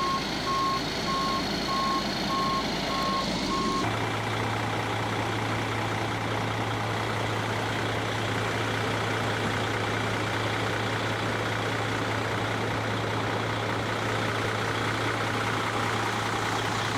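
Steady engine and road noise inside a truck cab, with a low hum. For the first four seconds a rapid electronic beep repeats over it, then both cut off abruptly and the steady hum and noise carry on.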